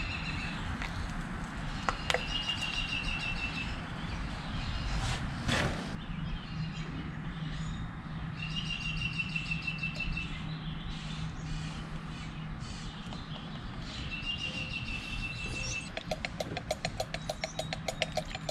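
A songbird repeating a short, even, high trill three times, about six seconds apart, over a steady low hum. Near the end a rapid run of clicks starts.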